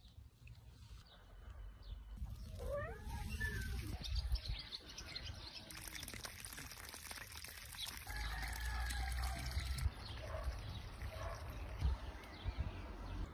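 Small birds chirping in short repeated calls, most of them in the second half, over a low steady rumble.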